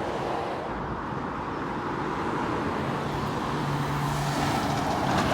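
Road traffic passing, with a vehicle's low engine hum coming in about three seconds in and the noise growing slightly louder toward the end.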